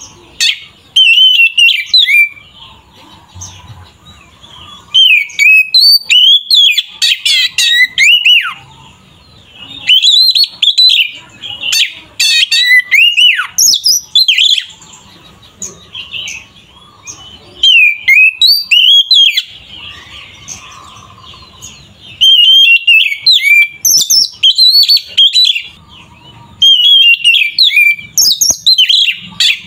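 Oriental magpie-robin (kacer) in full fighting song: loud, fast, varied phrases of whistles, slurred notes and rapid high trills. The song comes in bursts of a few seconds with short pauses between them. It is the aggressive 'gacor' song used as a lure to rouse other kacer.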